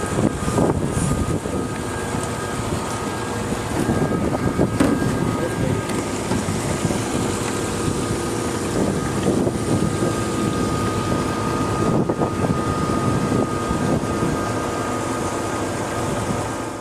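Cessna 210 Silver Eagle's single turboprop engine running steadily, heard from inside the cabin as a dense rush with a faint steady whine over it.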